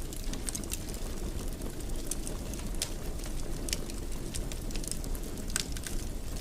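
Wood fire burning in a fireplace: a steady low rumble with irregular sharp crackles and pops, several of them loud about three, four and five and a half seconds in.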